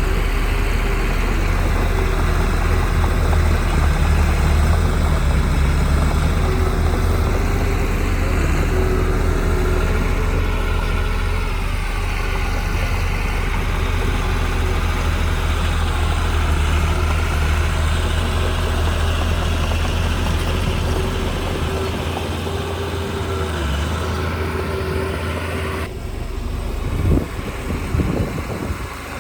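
Heavy diesel engine of earthmoving machinery running steadily at a low pitch. Near the end the sound changes abruptly and a couple of short knocks are heard.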